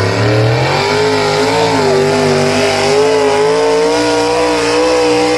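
Engine of a pulling vehicle running hard at high revs under load during a pull, its pitch rising slightly about half a second in and then holding steady.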